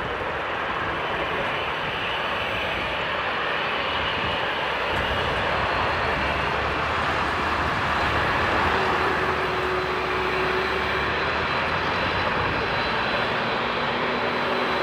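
Jet engines of a Boeing 787-9 airliner, a steady rushing noise that grows a little louder toward the middle, with a faint high whine and lower steady engine tones coming in during the second half.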